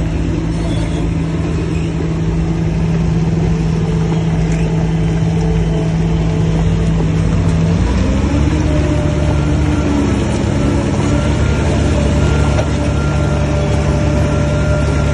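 Heavy diesel engine of earthmoving machinery running steadily, its note shifting slightly lower about eight seconds in.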